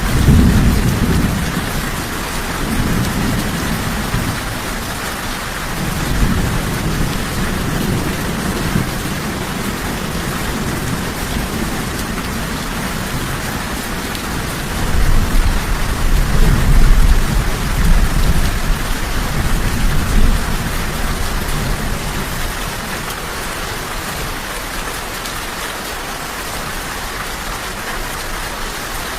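Steady rain with rolling thunder: low rumbles swell right at the start, again around six seconds in, and longest and loudest from about fifteen to twenty-one seconds in, then fade back to rain alone.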